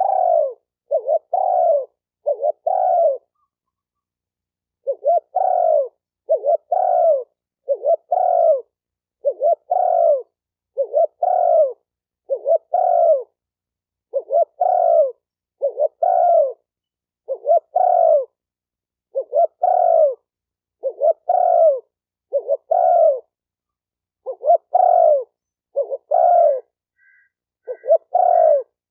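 Spotted dove cooing over and over, a steady string of short, low coo notes about one every second, with a brief pause a few seconds in. A few faint, higher chirps come in near the end.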